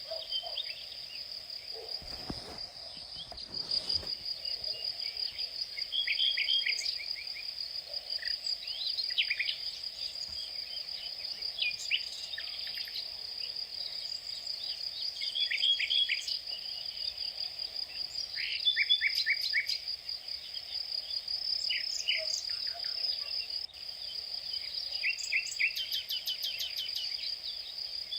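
A steady, high insect trill runs on without a break, while birds call in short runs of quick chirps every few seconds.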